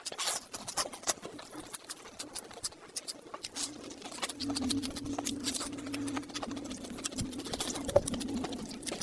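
Close-miked eating sounds: wet chewing with sharp mouth clicks and smacks. From about three and a half seconds in, a steady low hum runs for some four seconds under the chewing.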